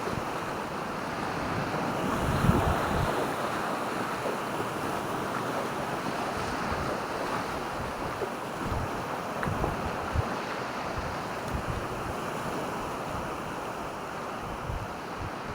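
Sea waves washing onto the shore in a steady rush, with wind buffeting the microphone in a few brief gusts.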